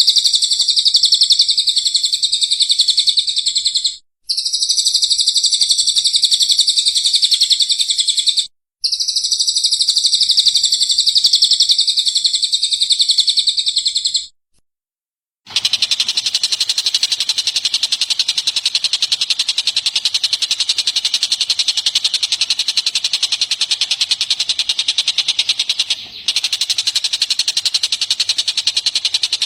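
Recorded songbird singing played as a looped tutoring track: dense, rapid high chirping and twittering in three near-identical stretches of about four to six seconds, each cut off by a short gap. About halfway through, after a second of silence, a different recording starts: a steady, unbroken high chatter over more background hiss.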